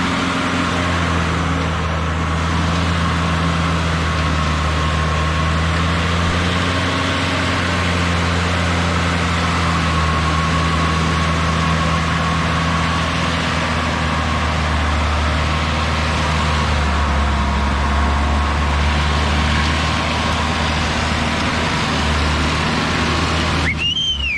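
Jeep engine idling steadily, a low even hum. Near the end a brief high-pitched chirp sounds, then the sound cuts off.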